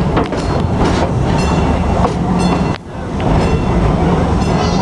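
Amusement-park passenger train running along its track, heard from aboard: a steady low rumble and clatter of the cars, with a few brief high squeaks and a short dip in level about three seconds in.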